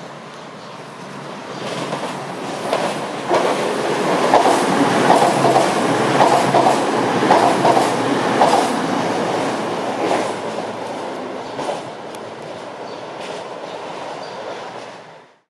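A passenger train running past, wheels clicking over the rail joints. It grows louder over the first few seconds, peaks, then fades, and the sound cuts off abruptly near the end.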